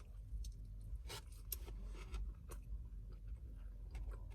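Close-up chewing of a bite of burger: soft, scattered wet mouth clicks and crackles.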